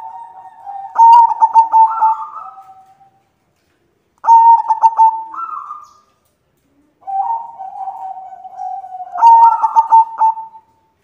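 White zebra dove cooing. It gives three phrases, each a quick run of staccato coos that ends in a longer drawn-out note, with short pauses between.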